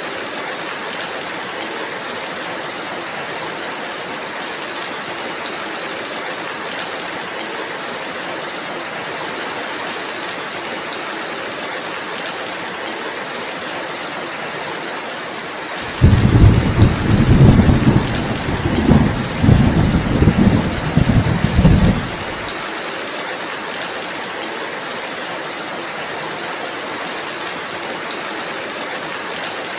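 Steady rainfall with a loud roll of thunder about halfway through: the low rumble starts suddenly, wavers for about six seconds, then stops abruptly, and the rain carries on.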